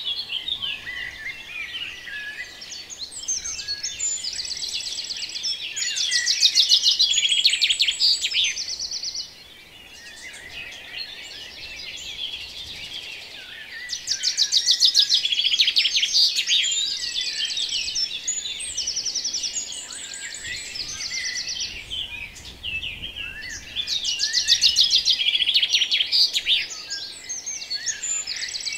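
Small songbirds chirping and singing together in high-pitched calls, with bursts of fast trills returning every several seconds.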